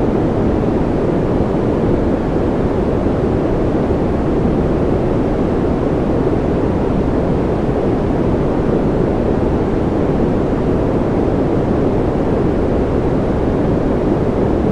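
Continuous white noise for infant sleep, even and unchanging, with its weight in the low and middle range so it sounds like a deep, muffled rush rather than a bright hiss.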